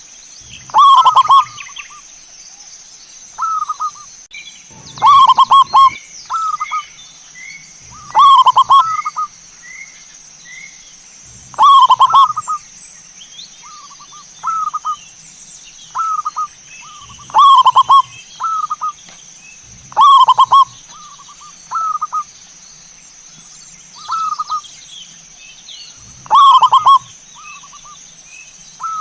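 Zebra dove (perkutut) cooing: loud staccato call phrases repeated every few seconds, with softer single notes between them.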